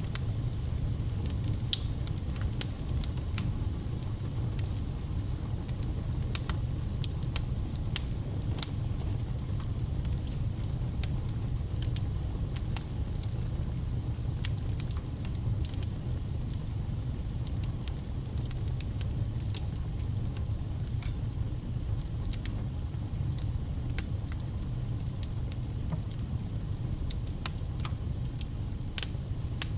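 Wood fire burning: a steady low rumble of flames with scattered sharp crackles and pops from the burning firewood.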